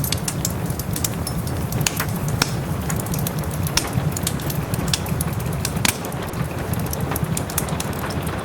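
Wood fire in a fireplace crackling, with frequent sharp pops over a steady low rumble, and soft rain falling in the background.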